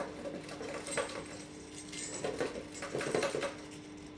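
Small irregular clicks and knocks of cage parts being worked by hand while trying to force a stiff fitting open, with a cluster of them past the middle, over a faint steady hum.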